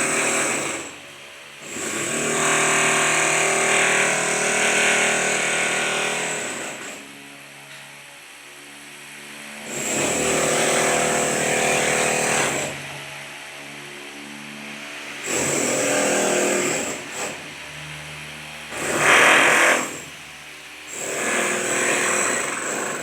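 Handheld electric power tool run in several bursts of one to five seconds each, with short pauses between, as in plumbing work on a wall or pipe.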